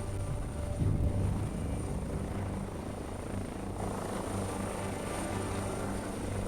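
Air ambulance helicopter in flight: a steady drone of rotor and turbine, swelling briefly about a second in.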